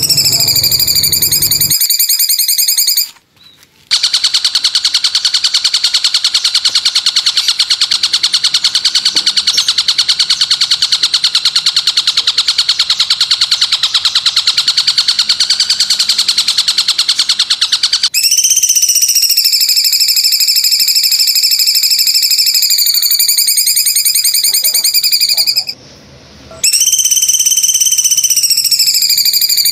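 A shrill, very fast buzzing trill, the kind of song played to caged songbirds so they copy it. Partway through it changes to a high pulsing whistle that rises and falls slightly, with two short breaks.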